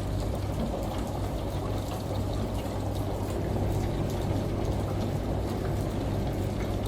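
Layered ambience of a washing machine, rain and a shower: a steady low hum under evenly rushing water, with faint scattered drop ticks.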